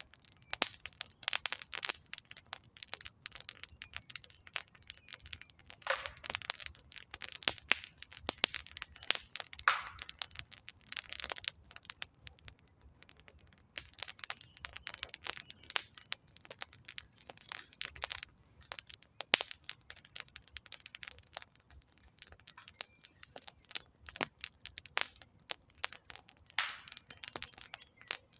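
Wood campfire crackling: a dense run of sharp pops and snaps from the burning logs, with a few longer hissing flare-ups.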